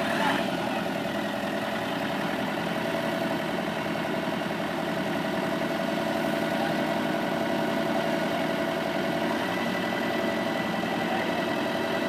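An engine idling steadily, with a faint, constant whine above it.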